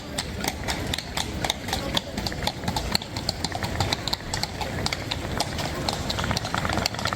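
Carriage horses' hooves clip-clopping on wet cobblestones, a quick, uneven run of sharp strikes, several a second.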